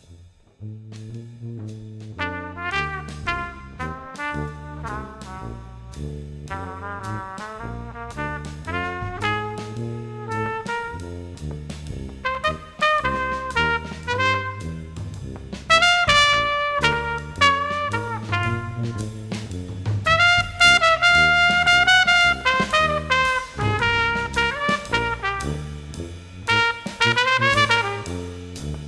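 Jazz brass ensemble music: trumpets play melodic lines over a moving low bass line and drums. The horns come in about two seconds in and get louder about halfway through.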